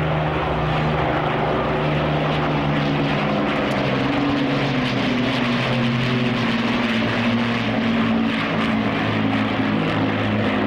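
Two Avro Lancaster bombers flying past, their Rolls-Royce Merlin piston engines giving a steady propeller drone whose pitch drifts slowly as they pass.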